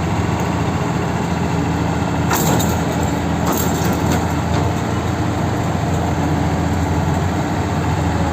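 Large diesel engine of heavy mining equipment idling steadily, with two short bursts of hiss about two and a half and three and a half seconds in.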